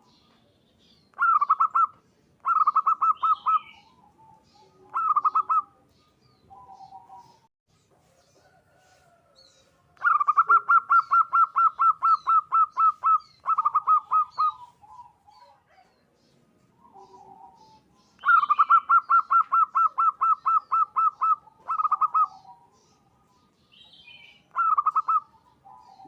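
Zebra dove (perkutut) singing: bursts of rapid, staccato cooing notes, several short phrases and two long runs of about a dozen quick notes each, with soft lower coos in the pauses. Faint chirps of small birds sound behind it.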